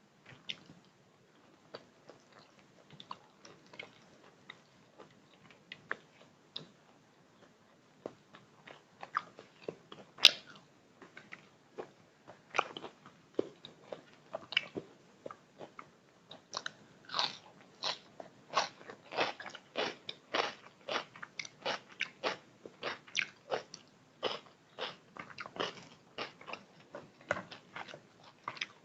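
A person chewing and biting food close to the microphone, with wet mouth clicks and crunches. The sounds are sparse at first, with one sharp louder click about a third of the way in. From about halfway they settle into a steady chewing rhythm of roughly two to three strokes a second.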